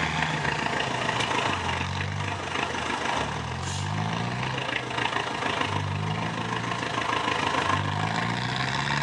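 A heavy off-road truck's engine revving up and dropping back about four times in a row, the pitch climbing with each surge, as when the truck works over trial terrain.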